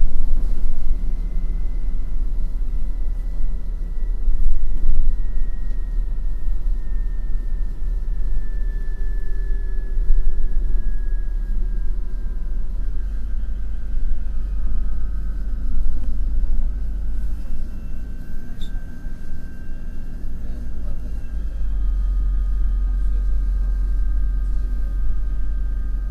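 MAN NL253 Hybrid city bus heard from inside while driving: a deep steady rumble with a thin drive whine. The whine slowly falls in pitch over the first ten seconds, and a second whine holds and rises slightly later on.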